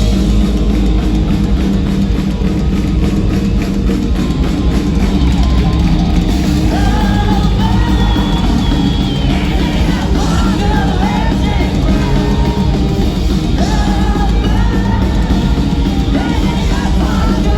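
Live rock band playing loud, with drums, distorted guitars and a singer's wavering vocal line coming in about seven seconds in, heard through a phone or camera microphone in the crowd.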